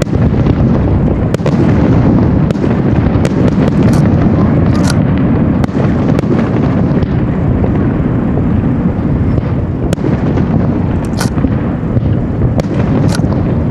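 Fireworks display: a dense barrage of aerial shells bursting, a continuous low rumble of booms with sharp cracks scattered over it.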